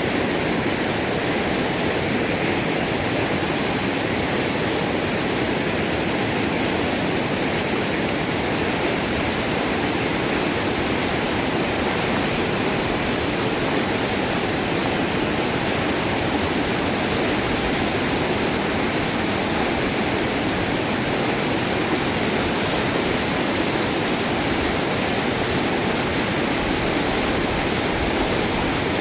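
Fast-flowing, swollen river water rushing steadily, a constant dense roar of water.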